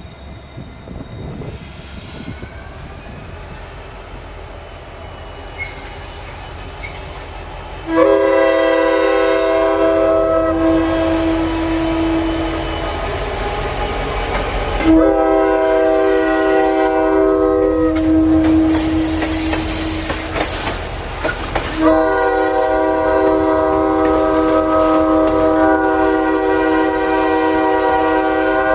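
Diesel locomotive's multi-chime air horn sounding three long blasts over the rumble of the passing train. The train's rumble builds for the first several seconds before the horn starts.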